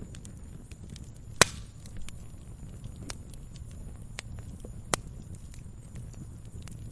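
Campfire crackling: a steady low rumble of the flames with scattered small snaps, and a sharp loud pop about a second and a half in and another near five seconds in.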